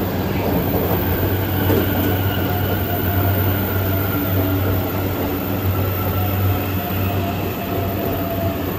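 JR East E259 series Narita Express electric train rolling past along the platform at low speed: a steady rumble of wheels and motors with faint drawn-out high tones above it.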